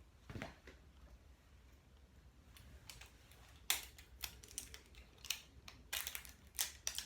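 Packaging being handled and opened by hand: irregular sharp crinkles and clicks, coming thicker and louder over the second half.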